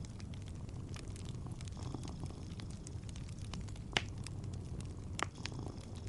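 Wood fire crackling, with sharp pops about four and just after five seconds in, over a steady low cat purr.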